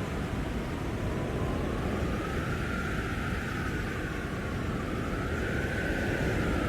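Blizzard wind howling: a steady rush of wind with a whistling howl that slowly wavers up and down in pitch.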